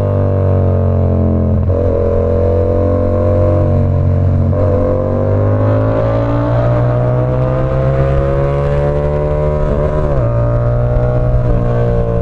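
Yamaha R7's 689 cc parallel-twin engine through an SC Project CR-T exhaust, pulling on the road. The note rises slowly and dips briefly a few times, most sharply about ten seconds in.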